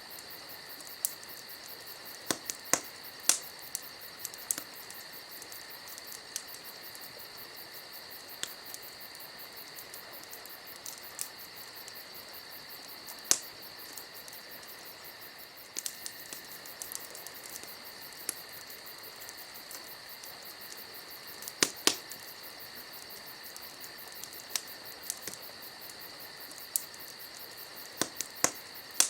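Campfire crackling, with irregular sharp pops, a few much louder than the rest, over a steady chorus of crickets.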